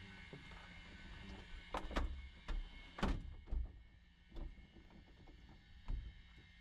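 A string of knocks, clicks and clunks from equipment being handled and fitted in a small aircraft cockpit, the loudest about two and three seconds in, over a low steady hum.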